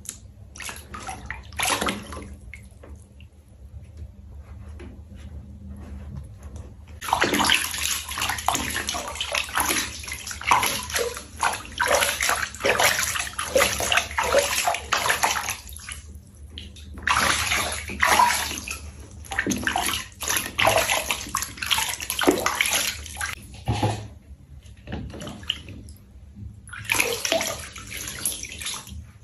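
Water splashing and pouring in long, irregular bursts while a cat is bathed, with quieter gaps between; a steady low hum runs underneath.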